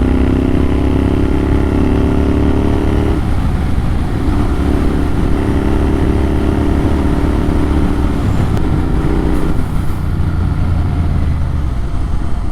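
Motorcycle engine running through an AEW TE102 aftermarket exhaust with its dB killer removed, a loud unbaffled exhaust note. The note runs steadily, shifting in pitch about three seconds in and again near nine seconds.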